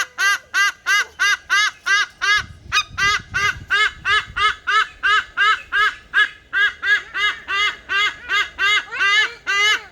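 A bird calling over and over in a loud, rapid run of short honking calls, about three or four a second.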